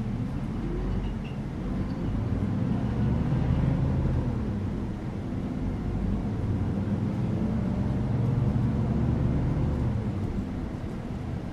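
City bus engine running with road noise, heard from inside the moving bus. The low drone swells about two seconds in, dips briefly midway, swells again and eases near the end.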